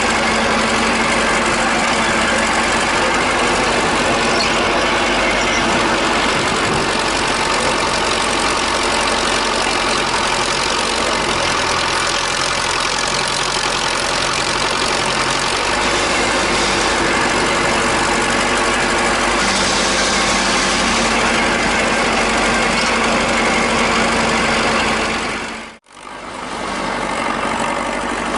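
Several old tractor engines idling and running steadily together. The sound dips out abruptly near the end and quickly returns.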